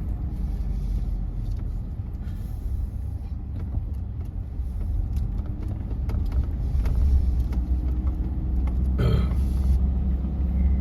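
Car driving slowly, heard from inside the cabin: a steady low rumble of engine and tyres that grows a little louder after about six seconds, with scattered light ticks and a short rustle a little after nine seconds.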